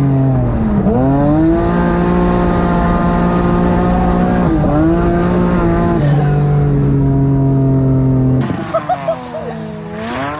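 Car engine held at high revs, with the revs dropping and climbing back twice, as in a lift or gear change. About eight seconds in, a cut leads to another stretch where the revs swing down and back up.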